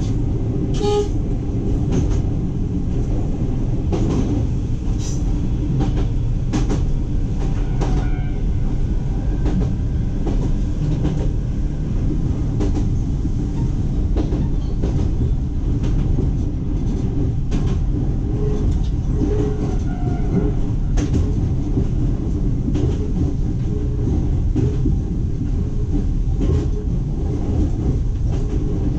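Iga Railway electric train running along single track. A steady low rumble with scattered clicks and knocks from the wheels on the rails.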